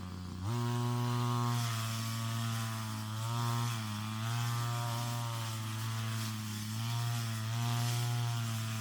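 Brush cutter engine throttling up about half a second in, then running fast, its pitch dipping and recovering every second or so as it cuts through weeds.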